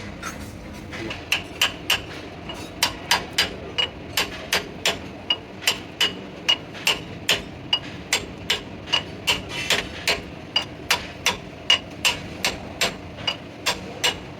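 Hammer blows on steel truck axle parts, a steady run of sharp strikes about two to three a second, each with a short metallic ring, starting about a second in.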